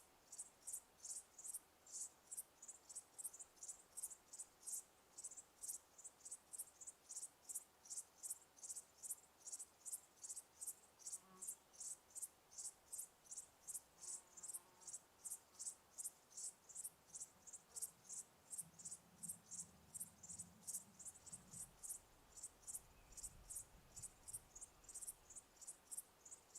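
Cricket chirping steadily and faintly, a regular train of short high chirps about two to three a second.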